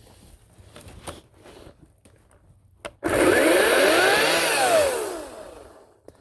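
Ryobi 40-volt battery chainsaw's electric motor starting suddenly about three seconds in, its whine rising in pitch for over a second and then falling as it winds down and fades.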